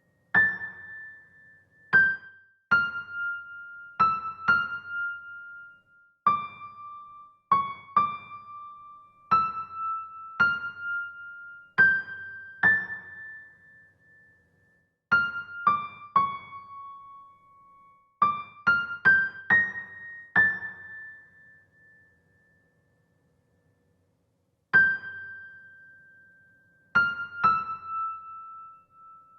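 Slow solo melody on a piano-sounding keyboard, played one note at a time, each note struck and left to ring and fade. It pauses for a few seconds after about two-thirds of the way through, then resumes.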